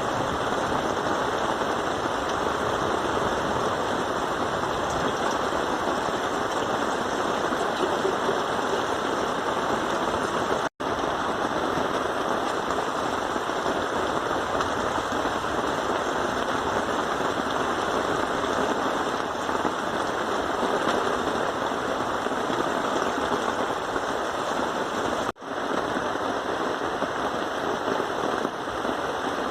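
Steady rain falling, a dense even patter that drops out for an instant twice.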